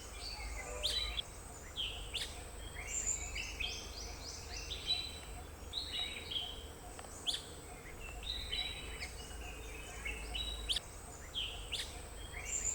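Several birds calling in forest, a busy run of short chirps and whistled notes, over a steady high-pitched tone.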